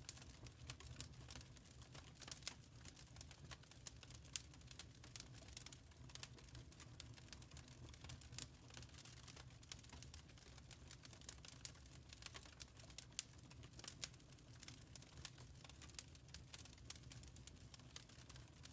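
Quiet wood fire crackling: irregular small pops and snaps over a low, steady rumble of the flames.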